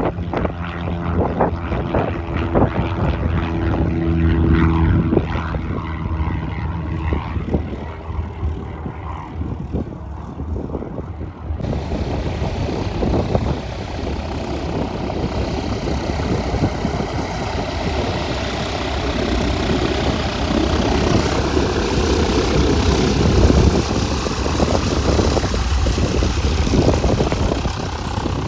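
Propeller airplane's piston engine running with a steady pitched drone. About twelve seconds in the sound changes suddenly to a loud, broad rushing noise that carries on.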